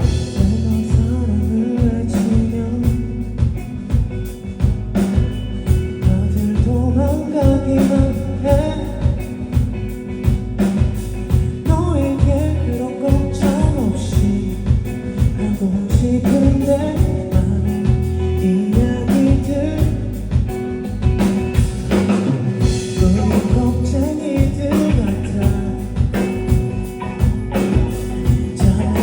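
A live rock band playing: a lead vocal sung over electric guitar, bass and a drum kit keeping a steady beat.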